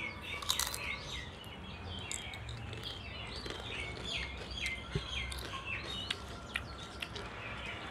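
A small bird chirping over and over, short falling chirps about twice a second, over a low steady hum. About half a second in there is a brief crisp crunch as a fried chip is bitten, and a few light clicks follow later.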